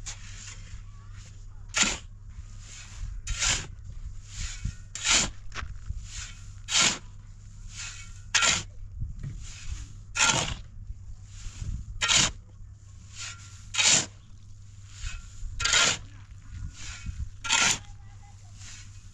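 Repeated short scraping strokes, roughly one every one and a half to two seconds, with fainter strokes in between, over a low steady hum.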